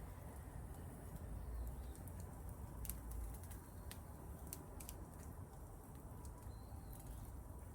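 Wood fire crackling: scattered, irregular sharp pops over a low, steady rumble.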